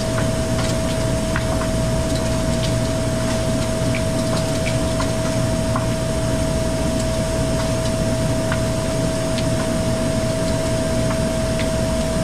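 Hoshizaki ice machine running after a compressor replacement: a steady low hum with one constant high whine over it and scattered light ticks.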